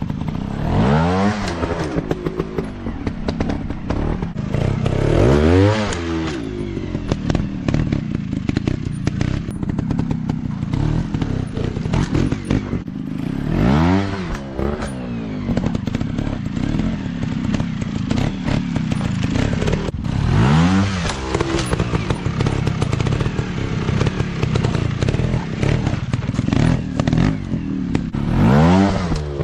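Motocross dirt bike engines running over rough ground, revved hard five times. Each rev rises and falls sharply in pitch over a steady engine drone, with clattering and knocks in between.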